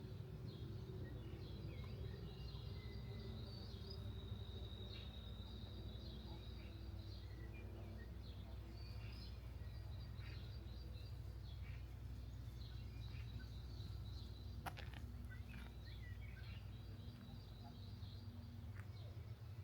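Small songbirds chirping and trilling over a steady low outdoor rumble, with one sharp click about fifteen seconds in.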